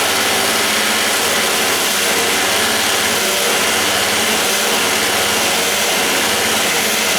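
Power drill running steadily with a worn bit grinding along the edge of a metal door strike plate's opening, reaming it wider so the door latch can fit.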